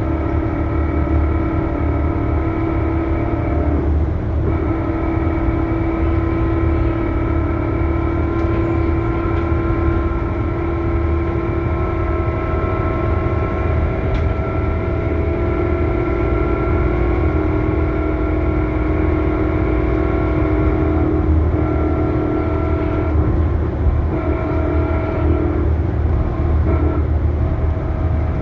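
Scania K280UB bus driveline running, with the low rumble of its five-cylinder diesel under a loud whine of several steady tones. The whine shifts in pitch about four seconds in and again near the end. The title calls it a horrible sound.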